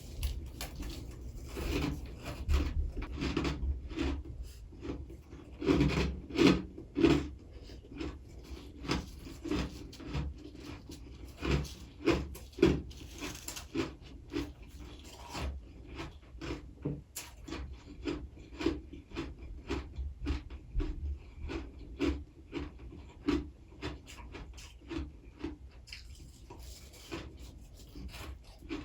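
Close-up chewing of freezer frost: a steady run of crunchy, grinding bites, about two to three a second, with a few louder crunches.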